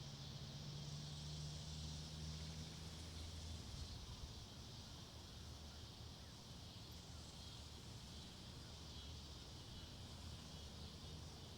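Faint woodland ambience: a steady high-pitched insect chorus, with a low hum that fades out about three seconds in.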